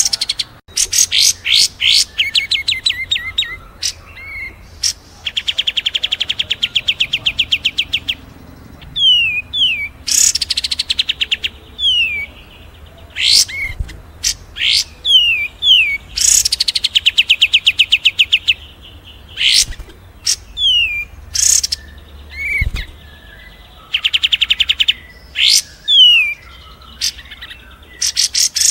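Recorded songbird calls layered for a bird-mastering track: short downslurred whistles, sharp high chips and, four times, a fast rattling trill lasting a couple of seconds.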